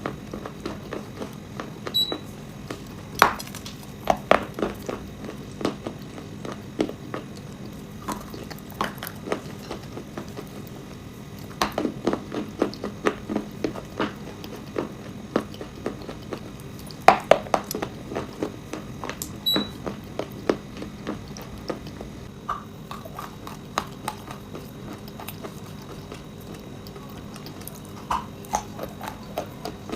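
Chalk and clay crunching and crackling in irregular bursts of sharp snaps, with denser clusters of crunches a few times.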